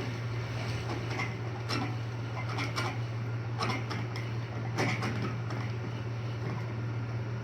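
Air hockey table: a steady low hum under irregular sharp knocks and clacks of the puck and mallets, clustered in the first five seconds.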